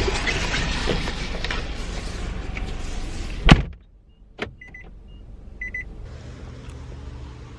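Steady outdoor noise of wind and storm that a door banging shut about three and a half seconds in cuts off. After it, a smaller click, two short pairs of high electronic beeps, and then a steady low hum.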